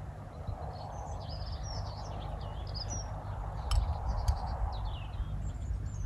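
Birds chirping and twittering throughout, over a low rumble with a few heavier thumps about four seconds in.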